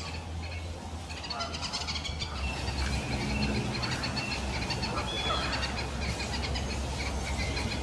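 Birds chirping and whistling in many short, high calls, with a lower call a little past the middle, over a low, steady rumble.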